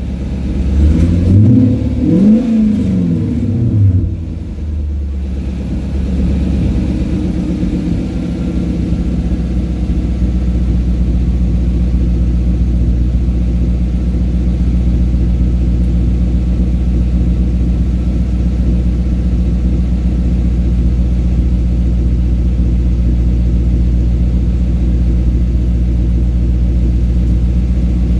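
Toyota Crown Majesta V8 exhaust: a few quick revs in the first seconds, each rising and falling, then settling into a steady low rumble.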